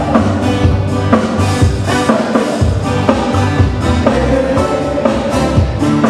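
Live band playing Hawaiian music, with a drum kit keeping a steady beat over bass and guitar.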